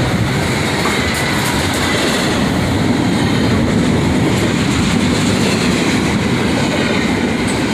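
A freight train rolling past close by: a steady, loud noise of steel wheels on rail that holds without a break.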